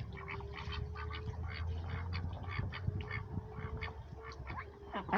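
Several domestic ducks quacking in quick, repeated short calls, with a faint steady hum underneath.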